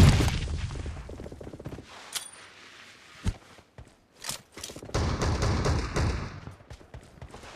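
Video game gunfire: a loud shot at the start that rings off over about two seconds, a few scattered single shots, then a louder, denser burst of fire lasting about a second and a half from about five seconds in.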